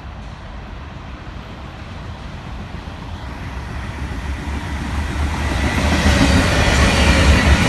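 Freight train approaching: a low diesel locomotive rumble and rail noise growing steadily louder.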